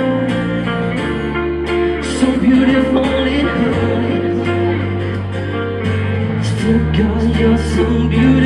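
Live rock band playing an instrumental passage with guitars over sustained bass notes, the chord changing every few seconds.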